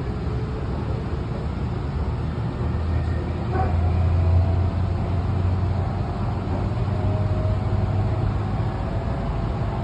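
Tokyu Den-en-toshi Line commuter train running, heard from inside the car: a steady low rumble of the wheels on the rails with a faint, slowly rising motor whine. There is a single clack about three and a half seconds in, after which the rumble swells.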